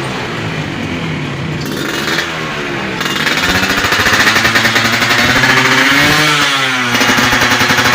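Suzuki Satria two-stroke motorcycle engine running through an AHM road-race exhaust with a rapid, rattly crackle. The revs rise about three seconds in and are held up, then dip briefly and pick up again near the end.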